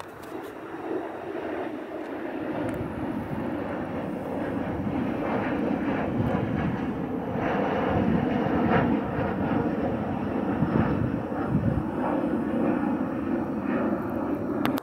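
Jet airliner departing at takeoff power: the engine noise builds over the first several seconds to a loud, dense rumble with a faint steady hum, then cuts off suddenly at the end.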